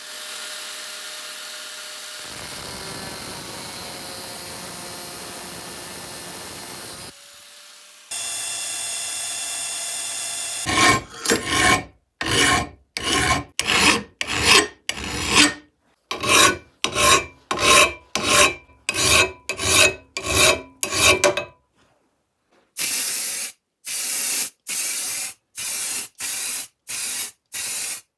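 Abrasive rubbing on wood, as in hand-shaping a stabilized-wood handle. A steady scraping for several seconds gives way to a run of quick back-and-forth strokes, about two a second. After a short pause near the end, a second run of strokes follows.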